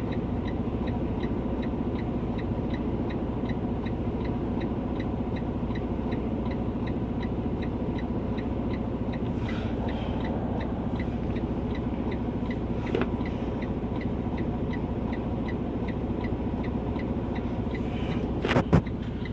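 Vehicle engine running steadily, a continuous low drone with a faint regular ticking about three times a second. A brief knock comes near the end.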